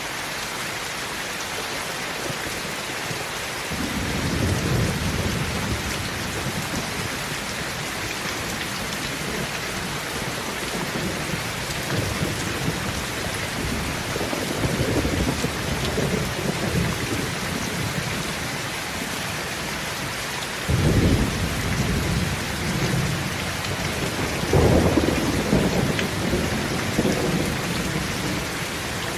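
Steady rain falling, an even hiss, with deep low rumbles that swell and fade several times: about four seconds in, around the middle, and a sudden one about two-thirds of the way through.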